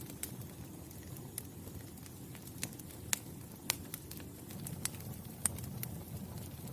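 Wood fire crackling: irregular sharp pops and snaps over a low, steady rumble of burning wood, with a few louder snaps in the middle.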